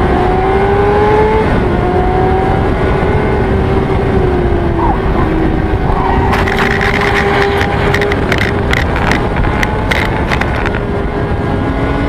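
Motorcycle engine running at steady high revs, its pitch sliding gently up and down, over heavy low rumble. A cluster of sharp clicks and rattles comes from about six to eleven seconds in.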